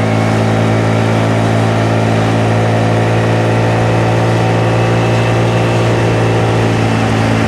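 Honda Navi's small 109 cc single-cylinder four-stroke engine running at a steady speed under way, giving one even, unchanging engine note.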